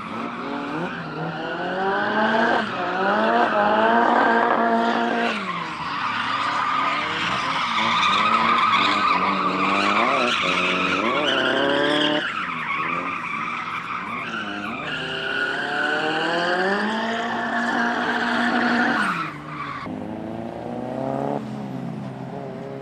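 Drift cars sliding with tyres squealing and engines revving hard. The revs climb and fall away several times, with quick blips in the middle and a long high-rev stretch that drops off about three-quarters of the way in.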